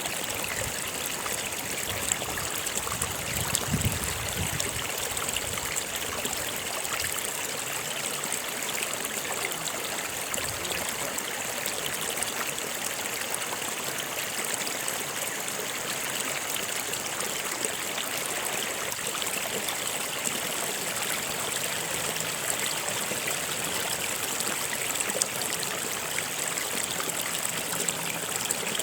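Stream or small river flowing over stones, a steady rushing and babbling of water.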